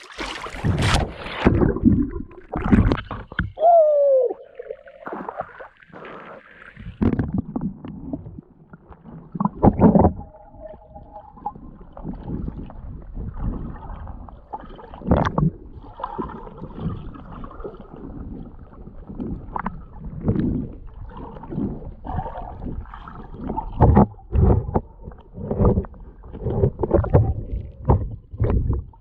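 Lake water splashing and sloshing irregularly around a person in the water, with heavier splashes now and then.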